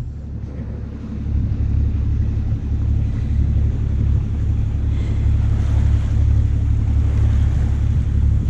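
A boat's engine running steadily, a low even hum under the rush of wind and water.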